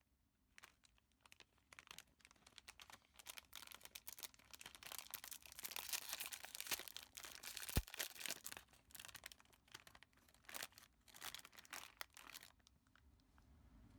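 Snack packaging being crinkled and torn open, with irregular crackles and rustles that thin out and stop shortly before the end.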